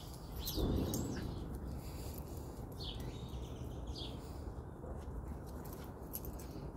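Small wild birds chirping now and then, with one falling whistled call about a second in, over steady outdoor background noise. A brief low noise about half a second in is the loudest moment.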